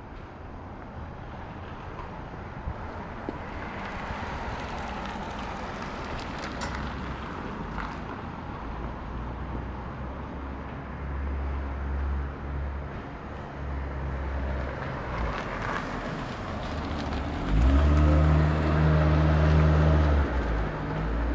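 Street traffic: cars passing, with a vehicle's engine running close by for about three seconds near the end as a loud low hum.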